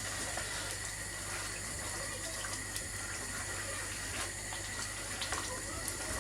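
Diced chicken and curry sauce sizzling and bubbling in a cast iron Dutch oven: a steady hiss dotted with small pops.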